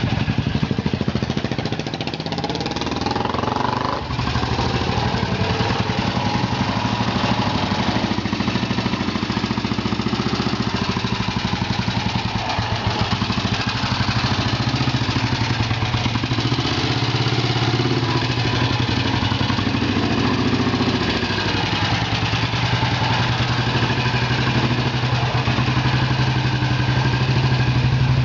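1977 Royal Enfield Bullet's single-cylinder four-stroke engine running steadily at low revs.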